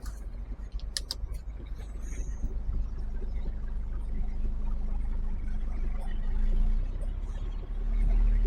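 HGV lorry's diesel engine running, heard from inside the cab as a steady low rumble with a hum; it grows louder about six seconds in and again near the end as the truck pulls away.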